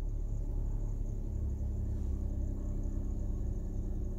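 Suzuki Alto Lapin's 658 cc three-cylinder engine running steadily with the accelerator held down, heard from inside the cabin.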